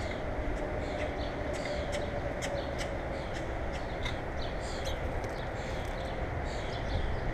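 Small birds at a feeder chirping in short repeated notes, with a run of sharp clicks about two seconds in, over a steady low rumble.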